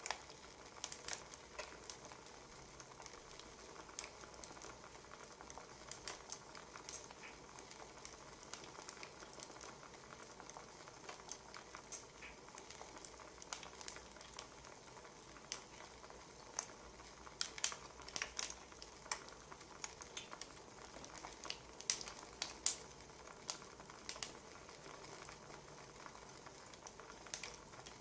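Wood fire crackling quietly: a soft steady hiss broken by irregular sharp pops and snaps, which come thickest a little past the middle.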